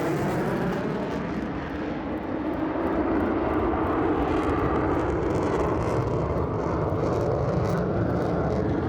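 Fighter jet's single engine in max afterburner during a 6G right-hand max-rate turn: a loud, steady jet roar.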